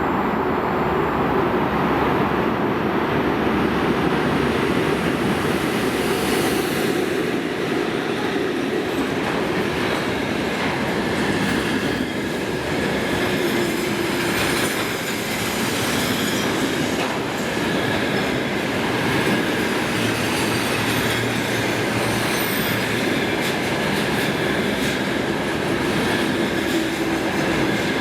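Container freight train rolling past: a steady rumble of wheels on rail with clicks from the rail joints and a faint wheel squeal.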